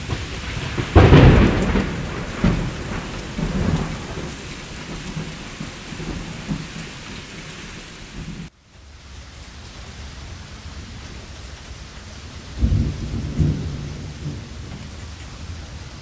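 Thunderstorm: steady rain with rolling thunder, a loud crash about a second in that rumbles on and fades over several seconds, and a second roll of thunder near the end. The sound cuts out for an instant about halfway through.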